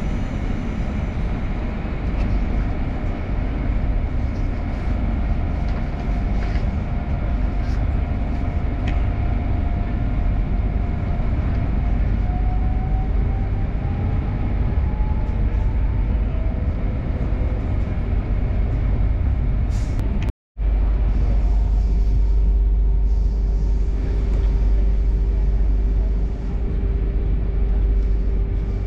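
Inside an electric train: a steady low running rumble, with a faint motor whine rising in pitch as the train pulls out of an underground station. The sound cuts out for a moment about twenty seconds in, then the rumble returns with a steady hum.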